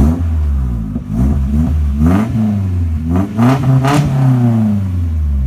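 1989 Nissan 240SX engine blipped through several short revs and dropping back to idle near the end, exhaust running through a newly welded-in Flowtech Red Hot glasspack muffler. It has a good solid tone, without the crazy loud high-pitched cackle it had before.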